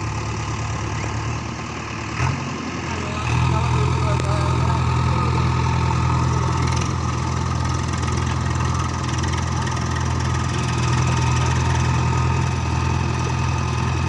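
Swaraj 735 FE tractor's three-cylinder diesel engine running steadily. After a brief dip and a click about two seconds in, it picks up to a louder, steady drone and holds it.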